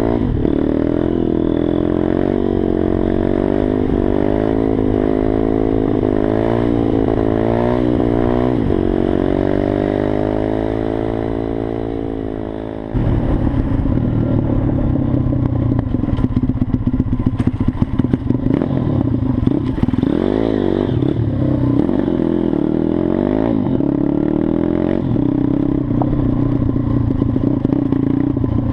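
Single-cylinder four-stroke engine of a Mojo KLX 160 SM pit bike revving up and down repeatedly, then a long falling note as it slows down. About 13 seconds in, it jumps abruptly to louder, rougher running with rattling and a couple more rises and falls in revs.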